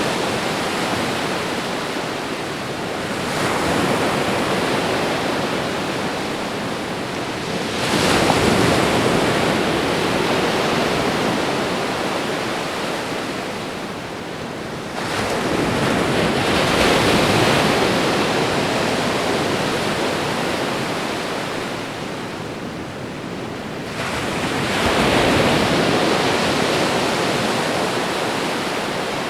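Ocean waves breaking on a shore, a continuous wash of surf with a fresh wave rolling in about every seven seconds, each swelling and then fading back.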